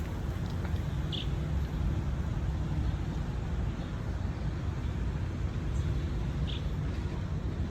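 Steady low rumble of city traffic, with two short high chirps about a second in and near the end.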